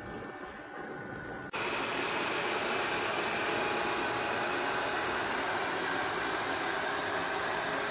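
The robot vacuum's self-emptying base station switches on suddenly about a second and a half in. Its suction motor then runs with a steady, loud rushing noise and a faint whine while it empties the robot's dustbin.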